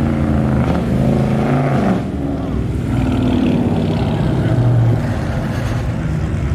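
Car engines running at low revs close by, their pitch shifting up and down as cars move, loudest just before five seconds in and then easing off, with voices in the background.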